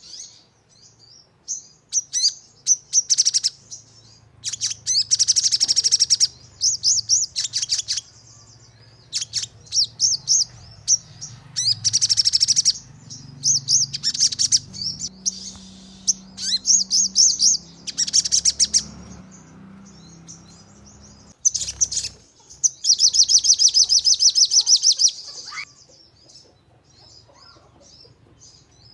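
Sogon bird calling in rapid bursts of sharp, rattling high notes (the 'nembak' calls), one burst after another with short gaps; the longest burst comes about two-thirds of the way in, and fainter calling follows near the end.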